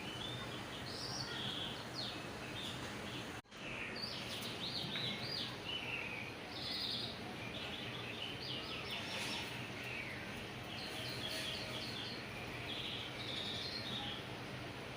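Small birds chirping and twittering over a steady background hiss, with a brief dropout in the sound about three and a half seconds in.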